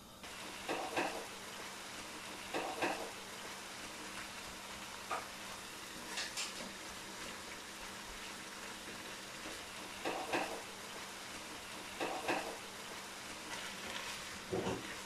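Minced chicken and mixed vegetables sizzling in a nonstick wok, the sizzle getting louder just after the start as the lid comes off. A silicone spatula stirs and scrapes through the mixture in about seven short strokes, a second or two apart.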